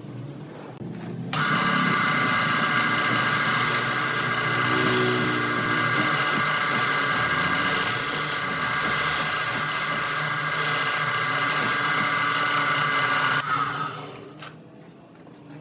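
A tool held against a redwood blank spinning on a wood lathe, giving a steady whine over a scraping hiss. It starts about a second in and stops shortly before the end.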